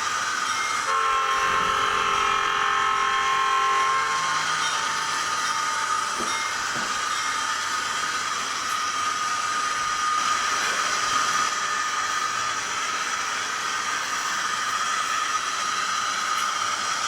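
Sound decoder of an SDS Models NR class model diesel locomotive playing locomotive sounds through its small speaker: a steady hissy running sound, with a multi-tone horn held for about three seconds from about a second in.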